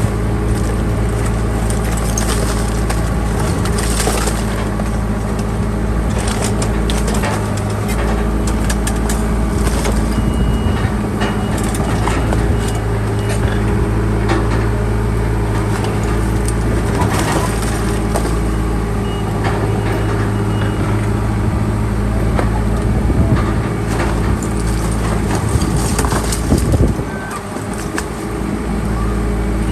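Bulldozer's diesel engine running steadily under load, with repeated cracking and snapping as fence and debris are crushed and pushed.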